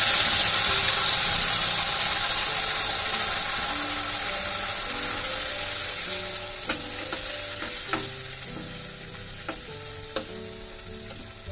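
Wet onion-garlic masala paste sizzling in hot oil in a stainless-steel kadhai. The hiss is loud at first and gradually dies down as the paste is stirred with a perforated steel spoon, which gives a few sharp clicks against the pan in the second half.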